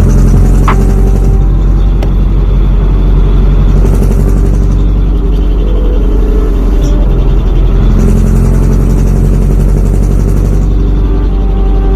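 Mitsubishi Fuso Canter's 4D33 four-cylinder diesel running loud through a split exhaust manifold (mani-wari) while the truck is driven, a steady low engine note whose tone shifts a little about five seconds in and again near eight seconds.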